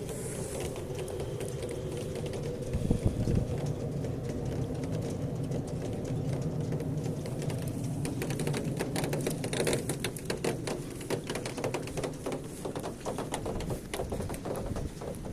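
Raindrops tapping irregularly on a hard surface, the taps growing thick about halfway through, over a steady low hum.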